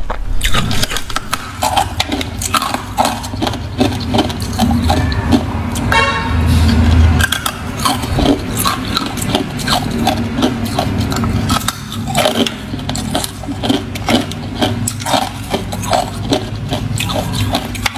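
Close-up chewing of crunchy ice: a dense run of sharp crunches and cracks over a low steady rumble, with a short pitched hum about six seconds in.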